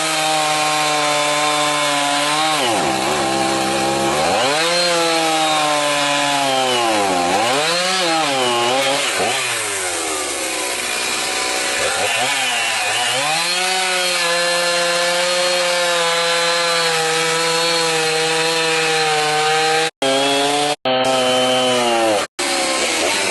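Chainsaw cutting wood: its engine pitch sags repeatedly as the chain loads up in the cut and climbs back, then it runs at a steady high speed. The sound cuts out briefly three times near the end.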